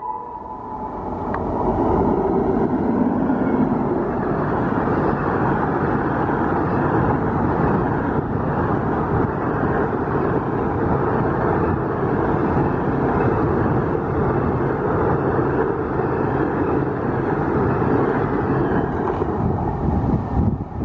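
Express train passing close by at speed, its passenger coaches rolling past with a steady loud rush and rumble of wheels on the rails, building up over the first couple of seconds.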